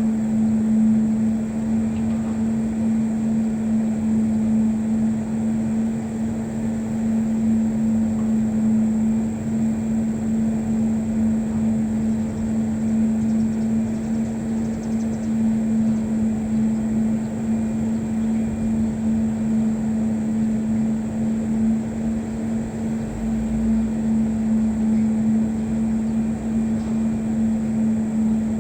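A steady low mechanical drone with one constant humming tone over a rushing noise.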